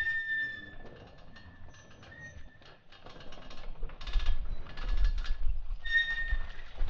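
Dirt bike brakes squealing while coming down a rocky descent under braking: a high squeal at the start, and again briefly about two seconds and six seconds in. Around it are rattling and a low rumble from the bike working over the rocks, loudest from about four seconds in.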